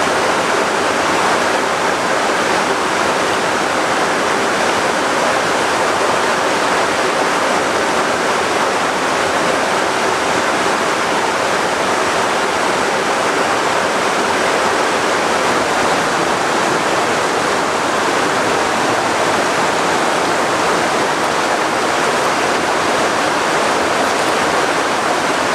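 Loud, steady rushing water with no break or change.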